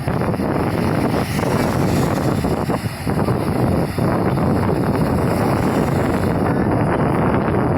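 Strong wind buffeting the microphone, a steady loud rushing noise.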